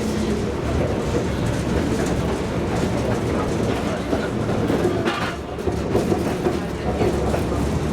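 Tram running along the rails, a steady rumble of wheels on track. A brief higher-pitched sound comes about five seconds in.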